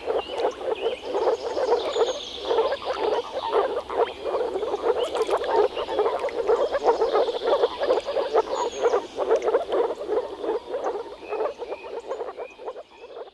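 A chorus of male moor frogs (Rana arvalis) giving their low, rapid bubbling advertisement calls, many overlapping. Fainter higher chirps sound above the chorus, and it all fades out at the very end.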